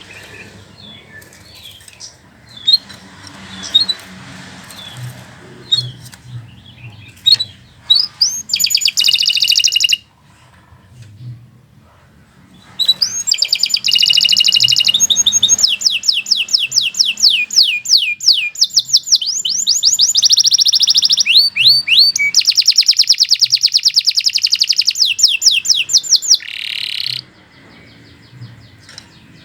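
Domestic canary singing: soft scattered chirps, then a short loud phrase about a third of the way in, then a long loud run of rapid repeated trills lasting about fourteen seconds that stops shortly before the end.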